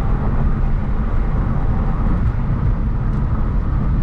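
Hyundai Genesis Coupe 3.8's V6 engine and tyres on the road while driving, a steady low rumble with no change in pitch.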